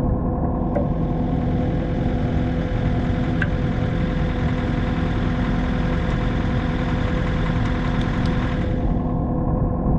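Heavy-equipment diesel engine running steadily at a constant pitch, with a higher hiss over it that drops away about nine seconds in.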